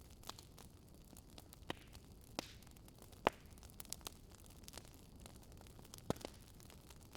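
Wood fire crackling faintly: irregular sharp pops and snaps over a steady low hiss, the loudest pop a little past three seconds in.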